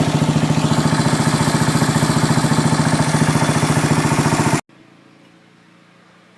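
Yamaha SR single-cylinder four-stroke motorcycle engine idling through its exhaust with an even, rapid beat. It cuts off suddenly about four and a half seconds in.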